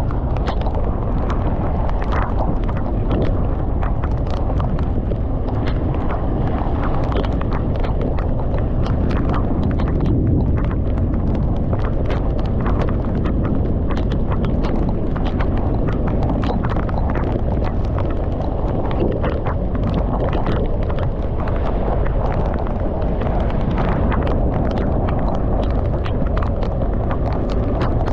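Motorcycle riding in heavy rain: a steady, loud low rumble of wind and engine, with many irregular sharp ticks of raindrops striking the camera.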